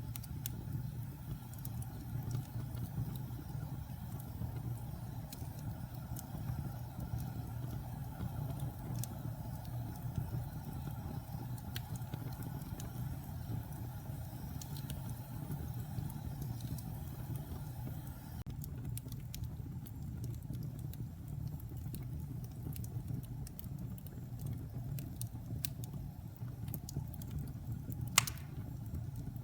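Wood logs burning in a fireplace: a steady low roar of flame with scattered crackles and pops, and one sharper pop near the end.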